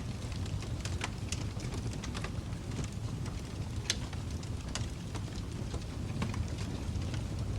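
Wood fire crackling in a fireplace: irregular sharp pops and snaps, the loudest about four seconds in, over a steady low rumble of the flames.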